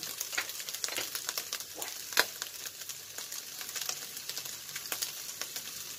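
Diced ham, hotdog slices and mixed vegetables sizzling in a little olive oil in a non-stick frying pan, a steady hiss with frequent small crackles and one sharper pop about two seconds in.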